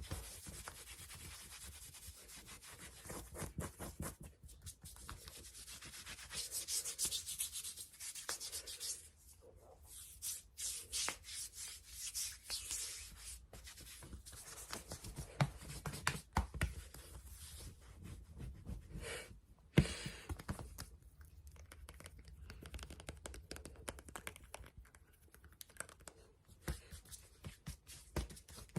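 Fast, aggressive ASMR scratching and rubbing close to the microphone, quick strokes one after another, with a few sharp taps in between.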